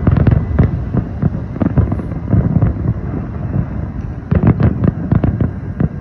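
Fireworks display going off: a rapid barrage of overlapping bangs, densest at the start and again from about four seconds in, thinning out in between.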